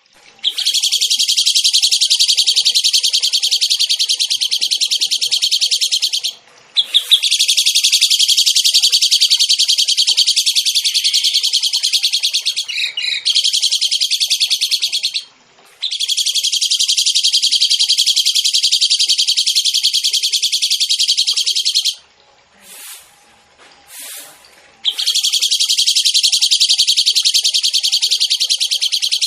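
Songbird singing long, very fast, high trills, each lasting six to eight seconds and broken by short pauses, from a masteran recording used to tutor caged songbirds.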